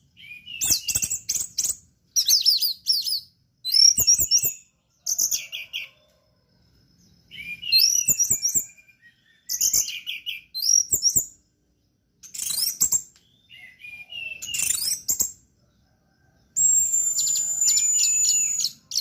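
Orange-headed thrush singing: phrases of about a second of fast, varied high notes and slurred whistles, broken by short pauses. Near the end comes a longer phrase with a held high whistle over quick trilled notes.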